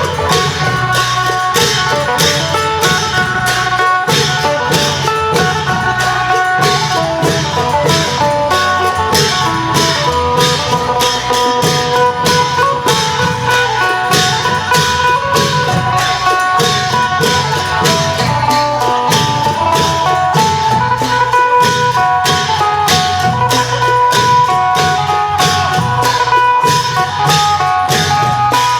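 Isan klong yao long-drum procession music: a phin lute plays a quick running melody over a steady, driving beat of drums and cymbals.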